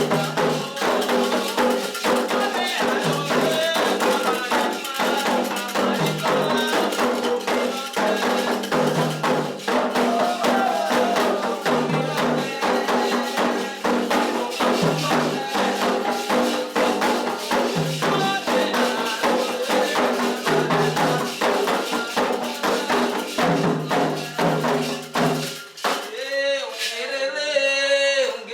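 Candomblé toque: atabaque hand drums and shaken and struck percussion in a fast, steady rhythm under voices singing a chant to the orixás. About 26 seconds in, the percussion stops and a lone voice carries on singing.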